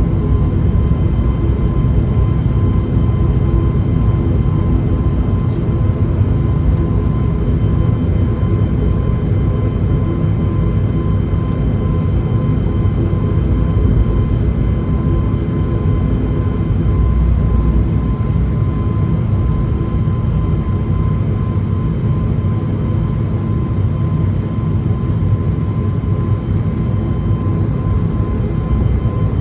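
Steady cabin drone inside an ATR 72-500 turboprop on the ground after landing: a loud low rumble with a steady high whine over it.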